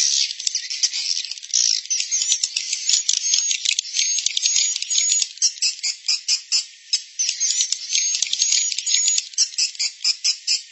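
Swiftlet roosting call played as a lure for swiftlets: a dense, fast chatter of clicks and short high chirps, pulsing quickly in loudness from about the middle on.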